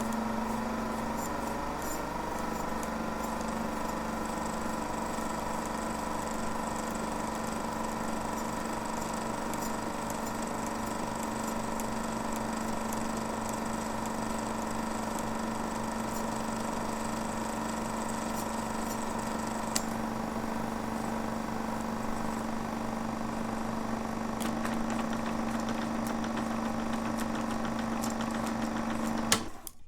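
A steady mechanical drone: a low hum with a few higher steady tones and faint crackle, with one click about two-thirds of the way in and another just before it cuts off suddenly at the end.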